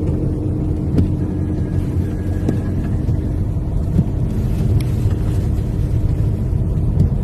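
Motor vehicle driving, with a steady low engine and road rumble and a faint steady hum.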